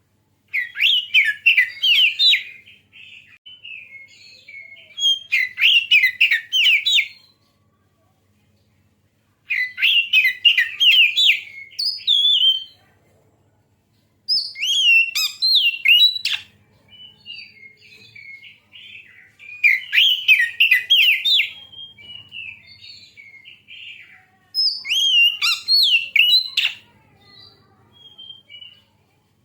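Oriental magpie-robin (kacer) song played as a lure recording: about six loud bursts of rapid, sweeping whistled notes, each lasting about two seconds, with softer twittering phrases between them.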